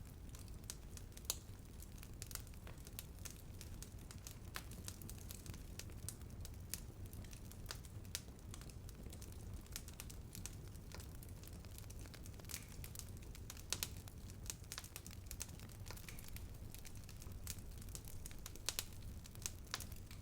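Wood fire burning and crackling: irregular sharp pops and snaps over a low steady rumble, with a few louder pops standing out.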